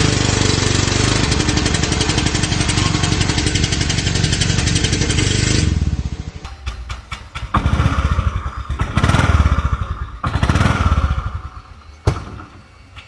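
Motorcycle engine running at high revs for about six seconds, then dropping back and revved up again in three short bursts, with a sharp click near the end.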